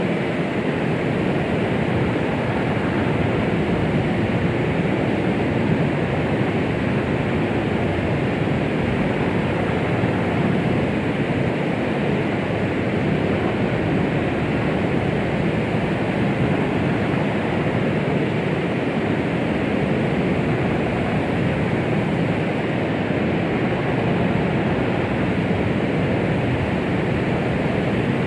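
Steady white noise of the womb-sound kind: an even, unchanging rushing hiss, fuller in the low and middle range than at the top, with no rhythm or heartbeat.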